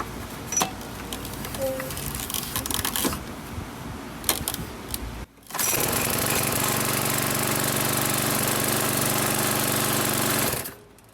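Snapper lawn mower's Briggs & Stratton engine running steadily with a rapid even pulse, now that its sheared flywheel key has been replaced. It comes in suddenly about halfway through, after scattered clicks and rustling, and drops away shortly before the end.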